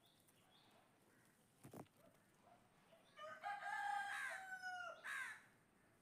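A bird calling once: a long held call of about two seconds with a quick falling note at the end, starting about halfway through.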